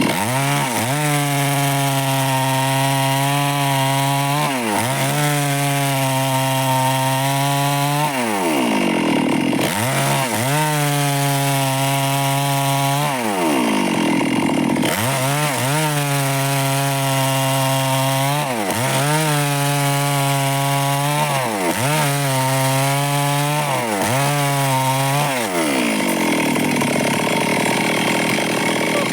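Stihl chainsaw cutting wood in a series of about seven cuts. Each time the engine pitch drops as the chain bites and holds steady under load, then rises as the saw comes free, with the cuts getting shorter toward the end.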